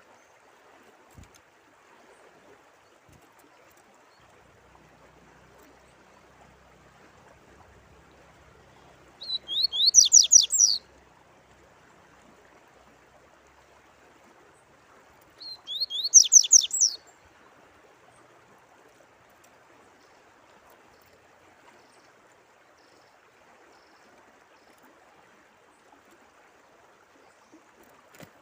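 Songbird singing two short phrases of rapid, high repeated notes, about six seconds apart, over a faint steady sound of running water.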